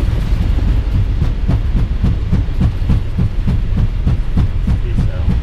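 Airbus A320 landing rollout heard from the cockpit: a loud low rumble from the engines in reverse thrust under the heavy deceleration, with regular thumps about four a second as the wheels run over the runway.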